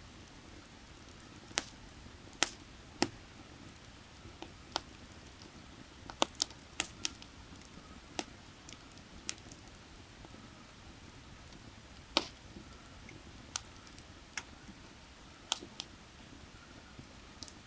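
Burning firewood crackling, with sharp pops at irregular intervals, a few of them louder, over a steady faint rush of valley creek water.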